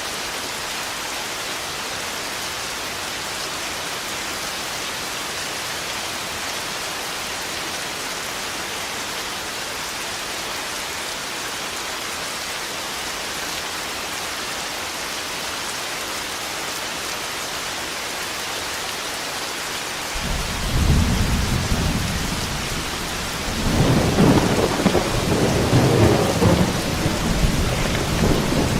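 Steady heavy rain, joined about twenty seconds in by a sudden deep rolling rumble of thunder that eases briefly and swells again near the end.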